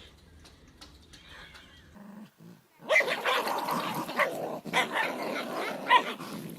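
A dog growling and barking, loud from about three seconds in.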